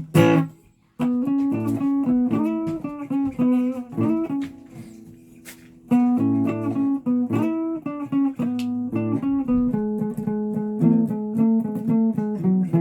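Guitar being played, picking single notes and chords. A sharp hit sounds right at the start, the playing begins about a second in, dies away for a moment around the middle, then starts again and carries on.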